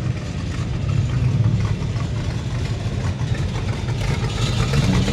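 A car engine idling and running at low speed, a steady low rumble, as a show car rolls past.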